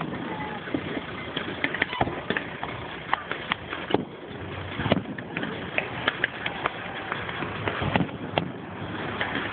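Fireworks display going off: a rapid, irregular run of sharp bangs and crackling pops, several a second, over a steady background hiss, with a few louder bangs among them.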